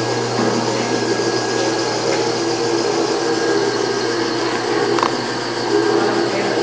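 Steady mechanical hum under a broad rushing noise, like a motor or fan running continuously.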